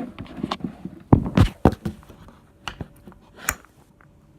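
A series of knocks and thumps from objects being handled, with the heaviest thumps about a second in and lighter clicks near the end.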